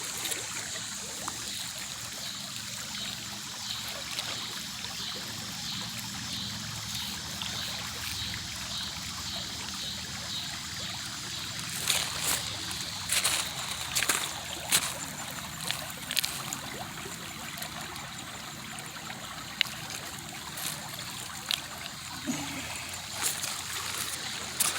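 Shallow creek water trickling and babbling steadily, with scattered sharp clicks and knocks, most of them about halfway through.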